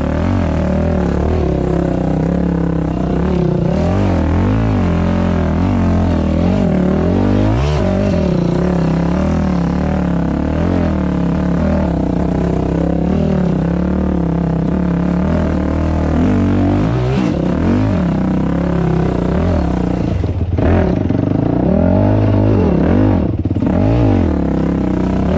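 Dirt bike engine running hard as it is ridden, its pitch rising and falling with the throttle, with a couple of brief throttle-offs near the end.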